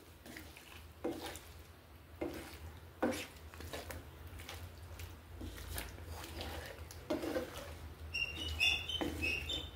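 A cooking utensil knocks and scrapes in a frying pan a few times, over a low steady hum. Near the end, small birds chirp repeatedly in quick high notes.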